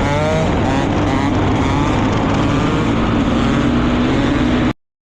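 Motorcycle engines running and revving, several pitches rising and falling over a steady drone, then the sound cuts off abruptly near the end.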